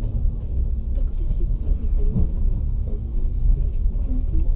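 Steady low rumble of a moving passenger train carriage, heard from inside the car: the wheels and running gear on the track.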